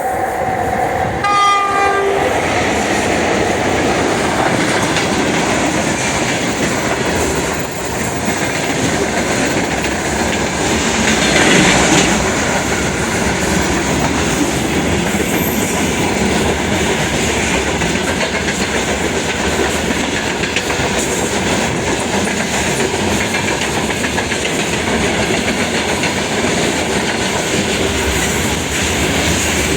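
VL80S electric locomotive sounding a short horn blast about a second and a half in, then its freight train rolling past with the steady noise of wagon wheels on the rails, which swells briefly about twelve seconds in.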